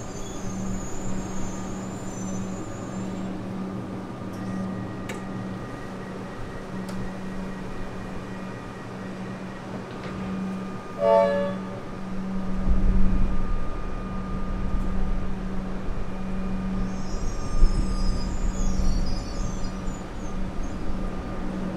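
Electric suburban train at a station platform with a steady low hum, a short horn toot about halfway through, then the train pulling away with a low rumble of motors and wheels that builds over the following seconds.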